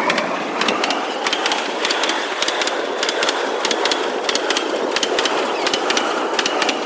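Train rolling past at close range, a steady rumble with frequent sharp clicks from its wheels running over the rails.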